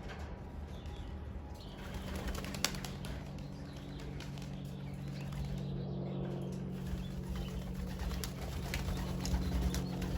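Young racing pigeons' wings flapping as the birds fly about, with pigeons cooing. A single sharp click about two and a half seconds in.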